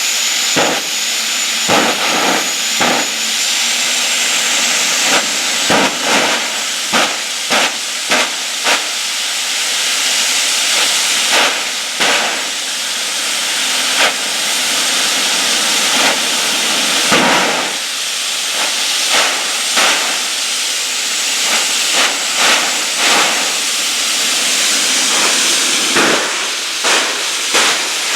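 Jet car's turbine engine running with a loud, steady hiss and a high whine that rises slightly a few seconds in, broken by repeated sharp cracks at irregular intervals.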